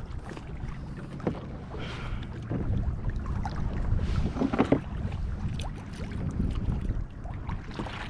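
Water lapping and splashing against a kayak's hull, with wind buffeting the microphone as a steady low rumble. A couple of louder splashes come about two seconds and four and a half seconds in.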